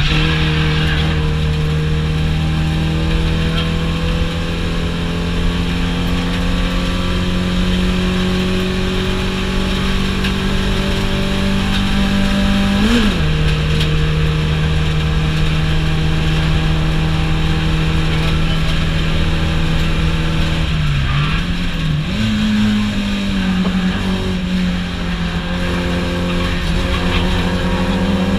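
Car engine heard from inside the cabin while lapping a race track, pulling at a steady, slowly climbing pitch. About 13 seconds in the pitch jumps up and then drops, as at a gear change. Around 21 seconds in it dips and blips, as at a downshift, then climbs again.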